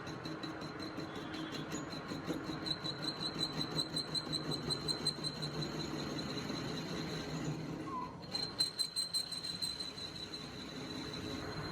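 A workshop machine running steadily, with a high whine, a low hum and fast regular ticking that is briefly broken about eight seconds in.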